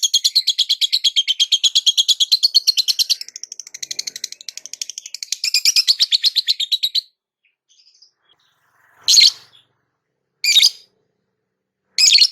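Lovebird chattering in a long, very rapid run of high chirps that breaks off about seven seconds in, followed by three short single calls.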